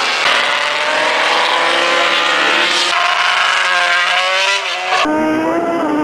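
Grand Prix racing motorcycle engines running at high revs, their pitch sliding up and down. The sound changes abruptly about five seconds in, to a steadier engine note.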